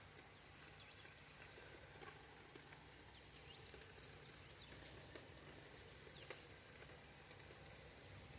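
Faint outdoor ambience under a steady low rumble, with a few brief high chirps and scattered clicks.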